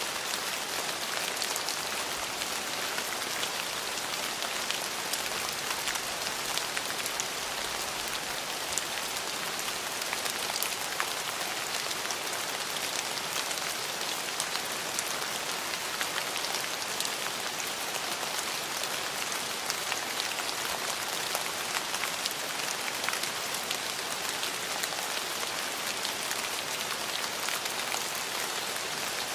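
Steady rain falling, with the fine patter of individual drops striking a surface. No thunder is heard.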